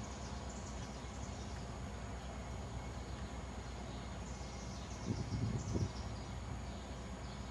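Faint outdoor street ambience with scattered short, high, downward-sweeping bird chirps and a thin steady high whine, and a few low rumbles about five seconds in.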